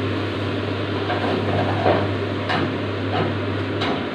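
Chicken giblets sizzling in oil in a frying pan, a steady hiss, over a low steady hum that cuts off near the end, with two light knocks in the second half.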